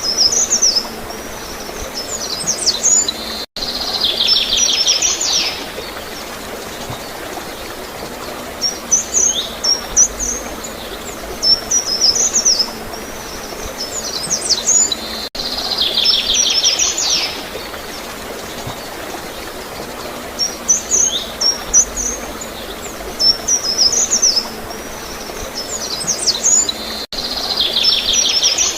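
Small songbirds chirping and twittering over a steady wash of flowing, gurgling water, with a buzzy trill that comes back about every twelve seconds. There is a brief dropout just before each trill.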